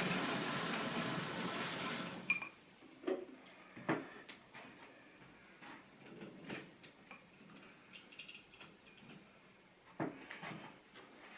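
Model railway train running along the track with a steady whirr and rumble that stops abruptly about two seconds in, followed by scattered light clicks and knocks of small plastic and metal parts.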